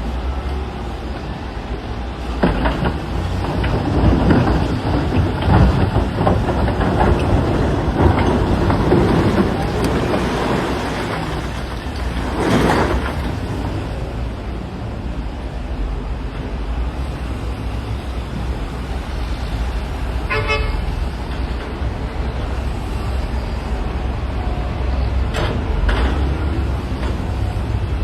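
Heavy diesel earthmoving machinery running steadily, with rocks clattering and crashing for several seconds as they are loaded, ending in a loud crash about twelve seconds in. A short horn toot sounds about twenty seconds in.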